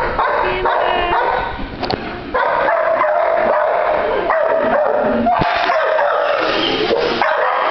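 Several shelter dogs barking and yipping in their kennels at the same time, their calls overlapping into a continuous din that grows fuller about two and a half seconds in.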